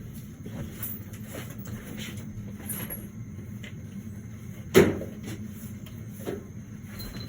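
Light knocks and clatter of things being handled during cleanup, with one loud clunk about five seconds in, over a steady low hum.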